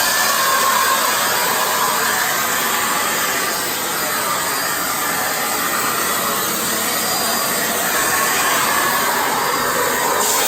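Miele Blizzard CX1 bagless vacuum cleaner running steadily, an even rushing noise of its motor and suction.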